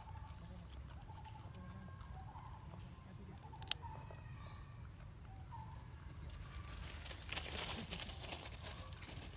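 Faint short animal calls over a steady low outdoor rumble. One sharp click comes about a third of the way in, and a louder crackling rustle follows near the end.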